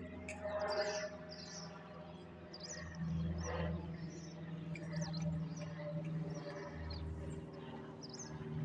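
Small birds chirping in quick short calls, over a low steady hum.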